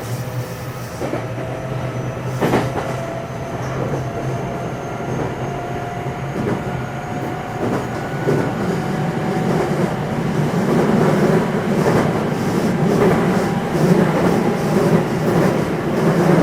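Inside a JR West 227 series electric train's motor car, the Hitachi IGBT VVVF inverter and traction motors whine, the tone slowly rising in pitch as the train gathers speed. Wheel and rail rolling noise grows louder, with a sharp knock from the track about two and a half seconds in.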